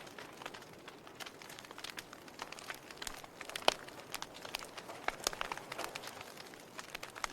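Log fire crackling: irregular sharp pops and snaps over a soft hiss, with one louder pop about halfway through.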